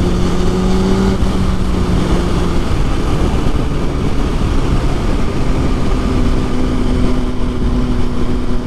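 Kawasaki ZX-6R inline-four sport bike engine running under way, its note steady and then a little higher from about halfway through, under heavy wind noise on the mic.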